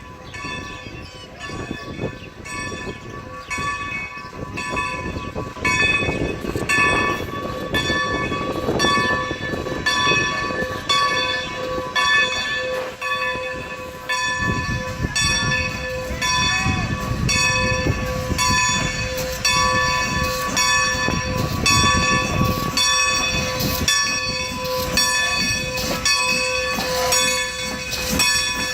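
Baldwin 2-10-0 steam locomotive no. 90 arriving with its train: its bell rings over and over at a steady rhythm above the low rumble of the engine and cars rolling in, and the rumble grows louder about a third of the way through.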